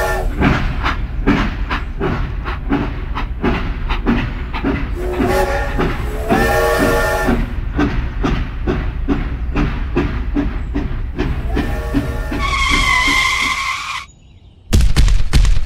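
Steam-train sound effects: steady rhythmic chugging with whistle blasts about five seconds in and again near the end, finishing with a higher shrill whistle before cutting off suddenly.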